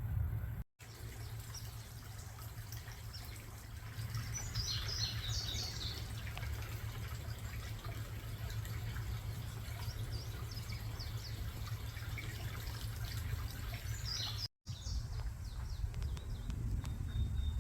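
Outdoor ambience: birds chirping in short bursts over a steady low rumble. The sound cuts out briefly twice.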